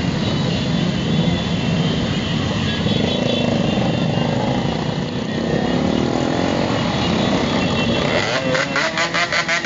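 Many motorcycle engines running together as a caravan rides along, their pitches rising and falling. Near the end a fast pulsing sound starts, about four beats a second.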